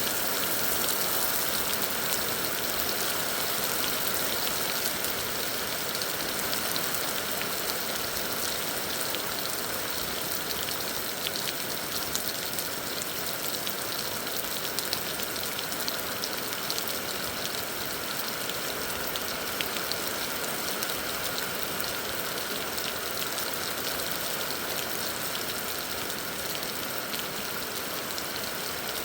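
Heavy rain falling: a steady hiss with many small, sharp drop ticks scattered through it.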